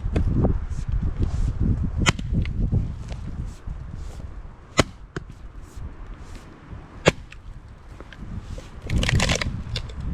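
Fiskars X27 splitting axe striking firewood: sharp single cracks about two, five and seven seconds in, then a rougher burst of cracking and clattering around nine seconds. Low rumbling noise fills the first few seconds.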